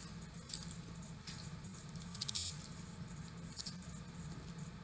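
Chewing homemade fried corn tortilla chips: a few soft crunches, the clearest about two seconds in, over a faint steady hum.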